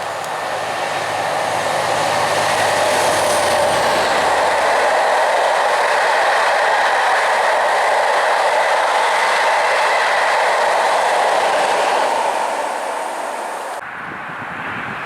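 A train passing close by on the main line. The rushing noise of the wheels builds over the first couple of seconds, holds steady for about ten seconds, then fades. It changes abruptly near the end, where the recording cuts.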